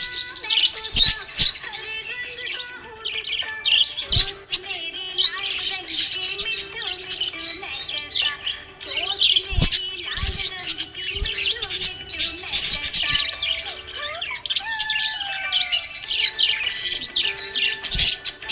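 Small pet parrots chirping continuously, many quick high chirps overlapping with a few lower gliding calls.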